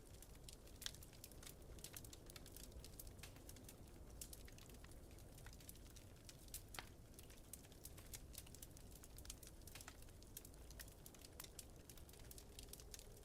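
Wood fire crackling in a fireplace: faint, irregular sharp pops and snaps, several a second, over a steady low rumble.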